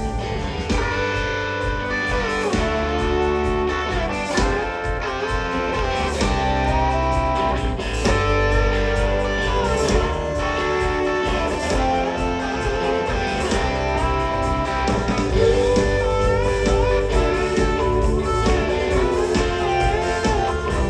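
Live rock band playing an instrumental break: an electric guitar lead with bent, gliding notes over bass and drums.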